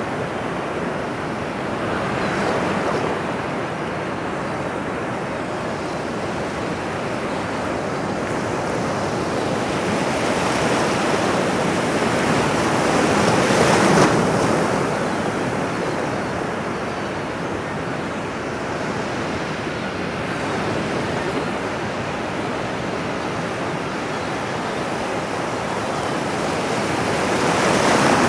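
Ocean surf: a steady wash of breaking waves that swells and eases, peaking about halfway through and again near the end.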